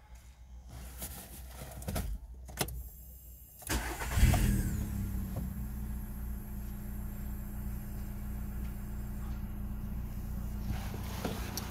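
VW Golf 6 1.4 CGGA four-cylinder petrol engine, switched off, then restarted: after a few clicks it is cranked and catches about four seconds in with a brief rev flare, then settles into a steady idle.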